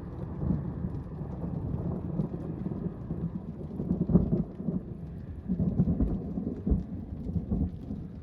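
Thunder rumbling on and on with rain falling; the rumble swells about four seconds in and again around five and a half to six seconds in.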